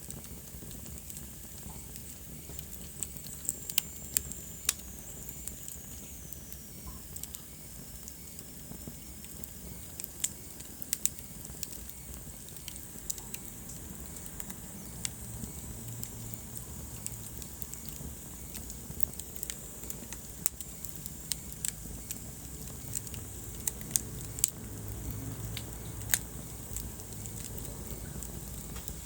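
Wood fire burning in a fireplace: frequent sharp crackles and pops over a low steady rumble of the flames. A faint high whistle falls in pitch about four seconds in.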